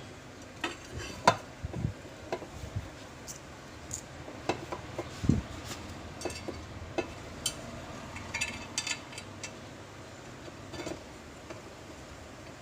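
Irregular light metallic clinks and taps, a few each second with gaps between, of tools and small metal parts being handled during work on a washing machine.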